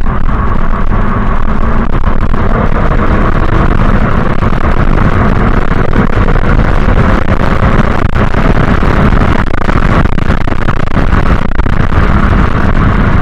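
Loud, steady rumble and hiss of a 2008 Scion tC being driven: road and wind noise with no clear engine note, most likely sped up in a fast-forwarded stretch of the drive.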